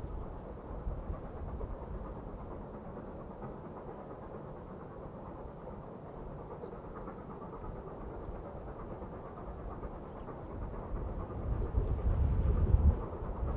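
Low rumble of a QJ steam locomotive train in the distance, growing louder about eleven seconds in as it draws nearer.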